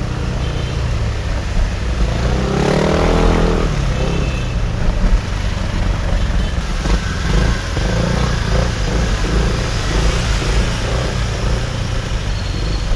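Motorbike engine running steadily amid city traffic noise; about two and a half seconds in, an engine revs up and back down over a second or so.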